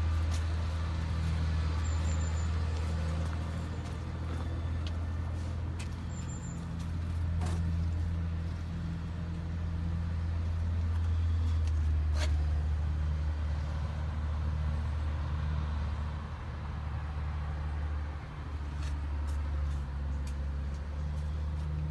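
Valtra N154 tractor's diesel engine running steadily, with a few short clicks, the clearest about twelve seconds in.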